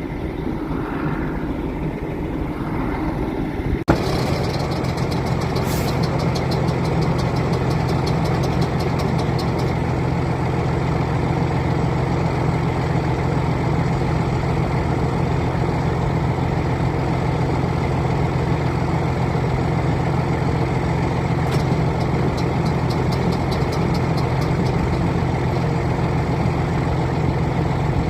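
Truck's 855 Cummins diesel engine running. About four seconds in there is a click and it gets louder, then it runs steadily, with a fast ticking for the next several seconds.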